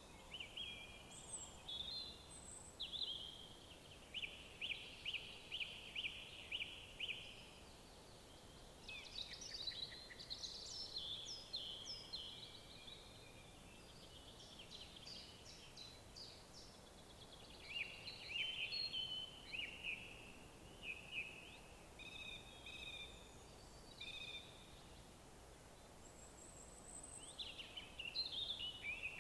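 Songbirds singing in turn: rapid trills of repeated notes and short warbled phrases, over a faint steady background hiss.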